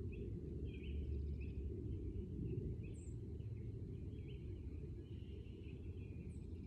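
Small birds chirping repeatedly over a steady low rumble of outdoor background noise, with two faint high-pitched chirps, about three seconds in and again near the end.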